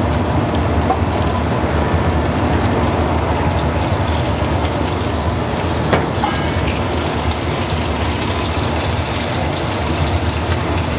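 Baby turnips and potatoes sizzling steadily in hot oil in sauté pans on a gas range, with one light knock of a pan or utensil about six seconds in.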